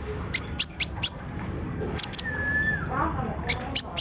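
Small songbirds, konin sunbirds and others, calling in quick clusters of sharp high chips and short downward-slurred notes. About two seconds in comes one long steady whistle that drops in pitch at its end.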